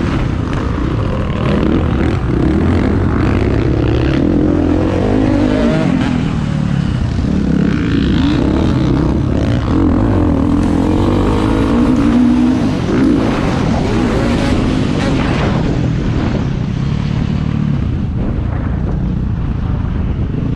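Motocross bike engines running at a race, their pitch rising and falling as the riders rev up and shift.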